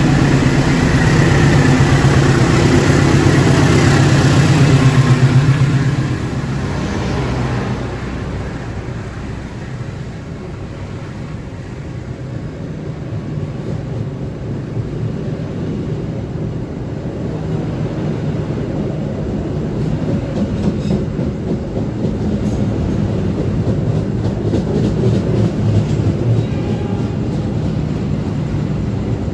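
A train passing through a station: a loud steady rumble that falls away about six seconds in, then a quieter rolling rumble with wheels clicking over rail joints that builds again later on.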